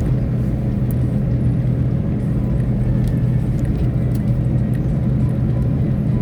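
A moving car, its engine and road noise making a steady low drone.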